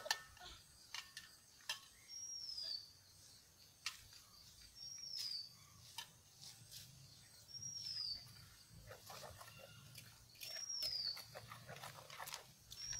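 A bird gives a short, high, falling whistle about every two to three seconds, around five times. Scattered light clinks from a spoon on a steel mixing bowl as batter is stirred.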